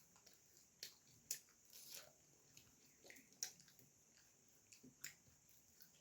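Close-miked eating sounds of puri and vegetable curry being chewed: soft, irregular wet mouth clicks and smacks, about one or two a second, over a faint steady hiss.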